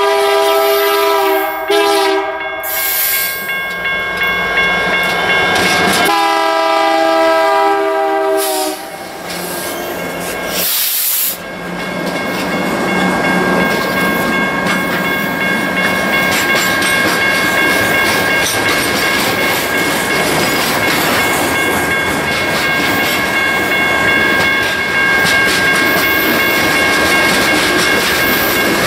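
Diesel locomotive horn on a CN SD75I sounding a long blast that ends about two seconds in, then a second long blast from about six to nine seconds. Then the train's loaded open hopper cars roll past close by: steady wheel-on-rail rumble with clickety-clack over the joints and a thin steady high squeal from the wheels.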